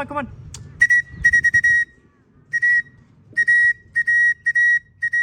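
A whistle blown in a series of short, sharp blasts of one steady high note, about six or seven in all with brief pauses between: the fancier calling racing pigeons down to land at the loft.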